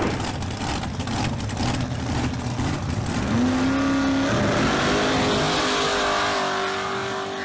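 Car engine revving, cut in abruptly: a dense rush of engine noise that turns into a steady pitched drone, steps up in pitch about four seconds in, then fades out near the end.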